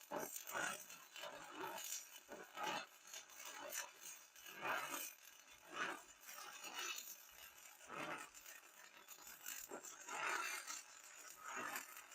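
Stick (shielded metal arc) welding: the electrode's arc crackling and sputtering in uneven bursts.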